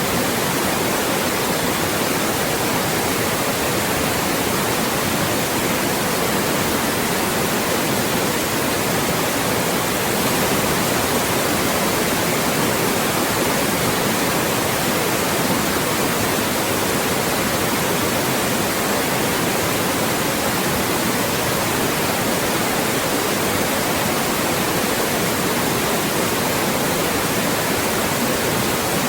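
Loud, steady white noise: an even hiss spread across all pitches, with no change.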